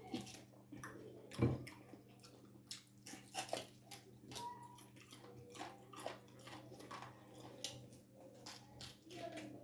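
Close-up eating sounds: wet chewing, smacking and slurping of bone soup and ugali, many short mouth clicks. A dull thump about a second and a half in is the loudest sound.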